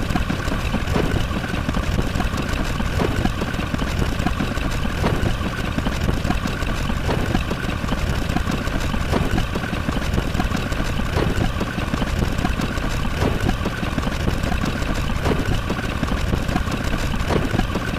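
A steady, engine-like rumbling drone with faint ticks about every second or two.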